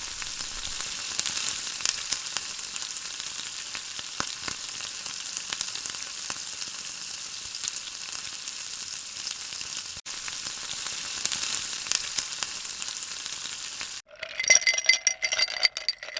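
Hot oil sizzling and crackling as food fries, steady with a momentary break about ten seconds in. Near the end the sizzle stops and a run of sharp, ringing clinks follows.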